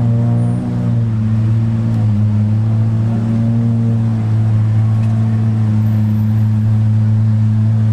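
Sports car engine running at a steady idle, a loud, even low drone with no revving.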